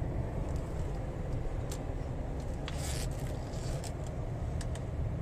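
Steady low rumble of a 2007 Ford Edge's 3.5-litre V6 and its tyres on the road, heard from inside the cabin while driving.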